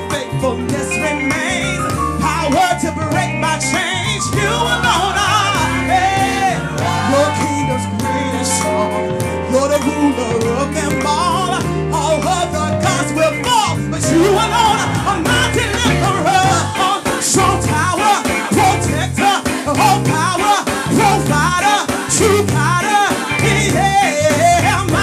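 Live gospel praise-and-worship music: a band playing with voices singing over it.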